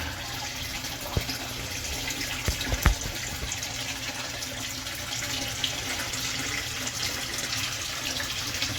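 Steady running, splashing water at a koi pond, with a few light knocks about a second and three seconds in.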